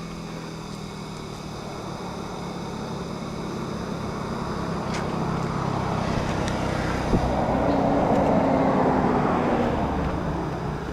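A motor vehicle on the road getting louder as it approaches, peaking about eight to nine seconds in and then fading as it passes. A brief tick sounds about seven seconds in.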